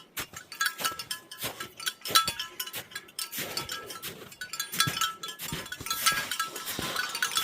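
Bear bells jingling with each step, along with walking footsteps.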